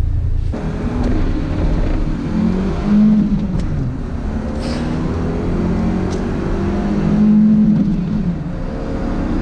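BMW E30 318is's 1.8-litre four-cylinder engine accelerating hard through the gears, its pitch climbing, dropping at a gear change about three and a half seconds in, then climbing again.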